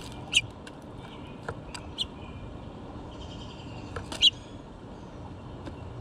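Two short, sharp bird chirps, one about a third of a second in and one just after four seconds, with a few smaller clicks in between, at a window seed feeder where a house finch is feeding on sunflower seeds. Faint birdsong and a steady low outdoor rumble lie behind.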